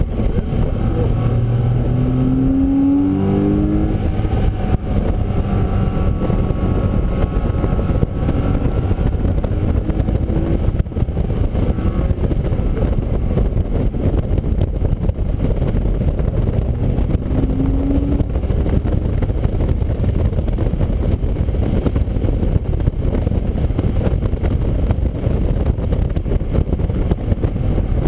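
Car engine running under load on a wet race track, heard from an onboard camera, with a steady rumble of road and tyre noise. Its pitch rises a few times as the engine revs up through the gears.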